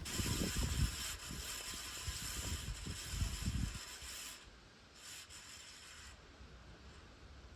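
Tatung Spinner ceiling fan running with a hissing, scraping rub from its worn bearings, over irregular low rumbles. The scraping drops away about four and a half seconds in, returns briefly, then leaves only a faint hum.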